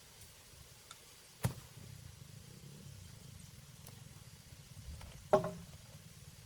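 Two sharp knocks about four seconds apart, the second louder with a brief ringing, over a faint low rumble.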